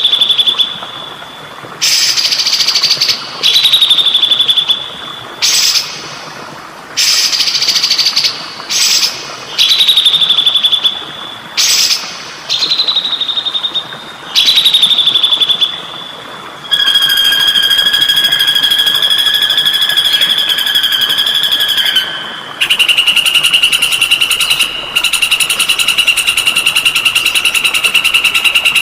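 Songbird calling: a run of short loud calls about every two seconds, each a sharp burst that falls into a brief held whistle. Then a long buzzy trill held on one pitch for several seconds, a short break, and another long trill.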